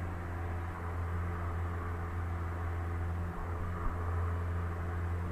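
Cessna 172's piston engine and propeller droning steadily in cruise flight, heard from inside the cabin.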